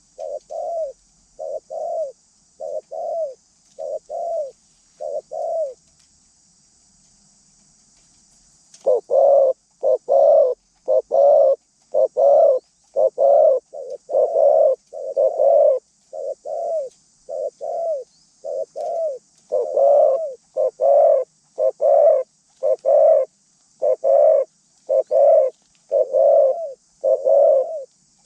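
A dove cooing a long series of evenly spaced coos, about one a second. The cooing pauses briefly about six seconds in, then resumes louder.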